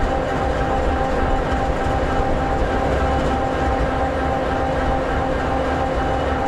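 EMD 16-710G3B diesel engine of an SD60E locomotive idling steadily, a low rumble with a constant hum.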